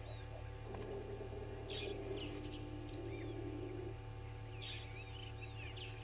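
Wild birdsong: a short phrase of high chirps and curving whistles, repeated twice about three seconds apart. Under it are a lower, steadier sound from about one to four seconds in and a constant low hum.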